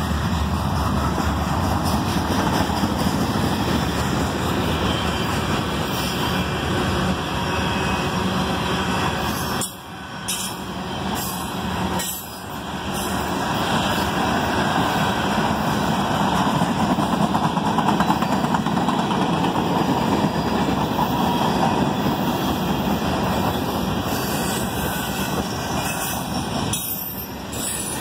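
A CSX freight train's cars rolling past on the rails: a steady wheel-on-rail noise that drops briefly about ten and twelve seconds in.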